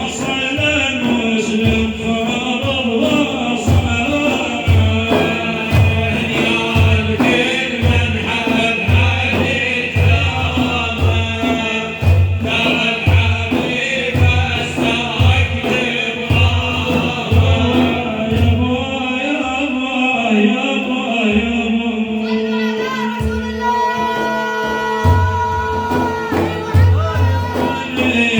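Islamic praise song (madeeh): a male voice with others joining in chants a melody over a steady low drum beat of about one and a half strokes a second. The drum drops out for a few seconds about twenty seconds in, then comes back.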